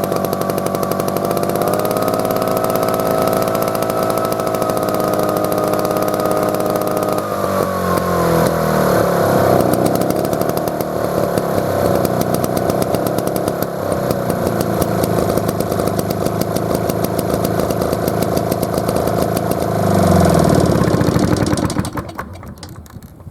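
Tohatsu T56D air-cooled engine running steadily, then dropping in speed about seven seconds in and running unevenly. Near the end it picks up briefly, then shuts down and goes quiet.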